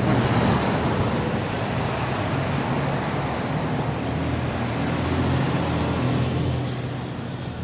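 A motor vehicle's engine running steadily under a broad rushing noise, with a high hiss that fades out about four seconds in.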